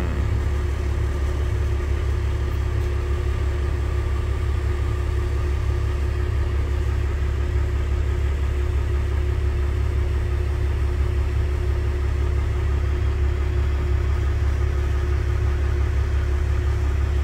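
Vehicle engine idling, heard from inside the cab: a steady low hum with a faint steady tone above it.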